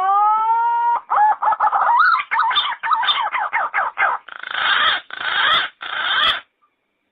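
Yellow-footed green pigeon singing: a long rising whistle, then a run of quick warbling whistled notes, then a few harsher, rougher notes, and the song stops about six and a half seconds in.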